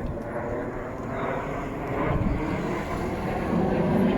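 Jet aircraft of an aerobatic display team flying past, a steady rushing engine noise that grows louder near the end.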